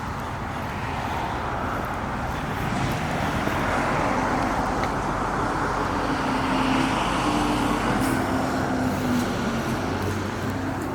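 Road traffic: a motor vehicle passes by on the road, getting louder to a peak in the middle and fading near the end, with a steady engine or tyre tone as it goes by.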